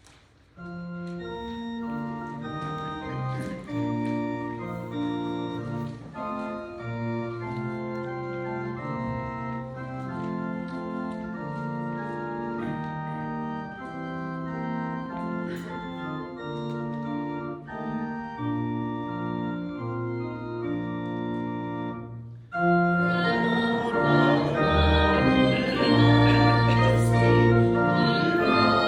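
Church organ playing slow, held chords that change step by step. About three-quarters of the way through it breaks off briefly and comes back louder and fuller, with deep bass notes.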